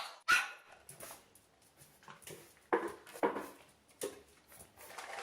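A dog barking: a series of short barks.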